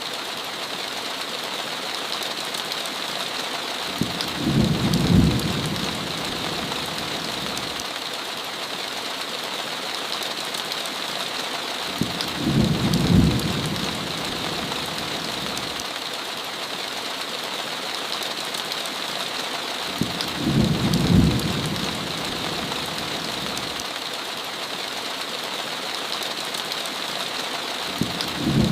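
Steady heavy rain on a window, with a short low rumble of thunder about every eight seconds, four times, each lasting about a second.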